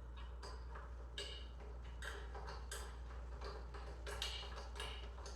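Light, irregular metallic clicks and ticks of hand tools, likely a wrench or ratchet, working on engine bolts, roughly two or three a second, over a low steady hum.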